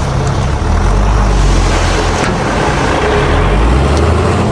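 Heavy diesel engine of earthmoving machinery, a bulldozer or dump truck, running under load: a loud, deep rumble that swells about a second in and holds steady.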